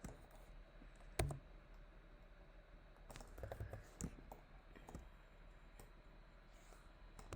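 Scattered faint clicks of a computer mouse and keyboard being used, the sharpest about a second in and a small cluster between about three and five seconds in.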